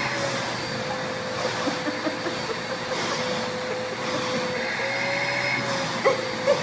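Vacuum cleaner running steadily, its motor hum wavering slightly in pitch, with a couple of brief sharp sounds near the end.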